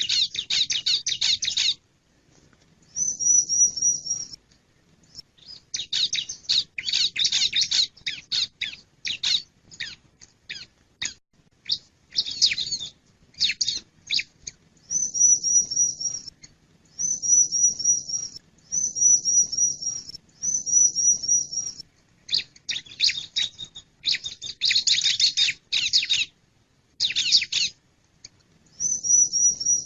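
Male bar-winged prinia (ciblek) calling: bouts of rapid, high, sharp chirps alternate with short, evenly repeated high trills, each about a second and a half long.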